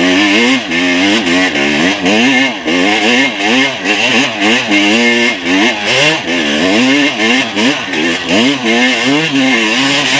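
Motocross motorcycle engine revving hard, its pitch rising and falling rapidly over and over as the throttle is worked.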